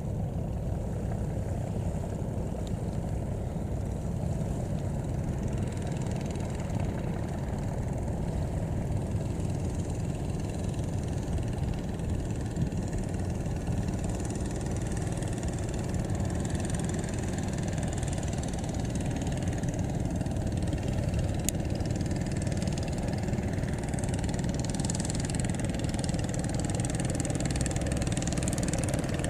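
A boat's engine running steadily at low speed, a continuous drone that doesn't change pace.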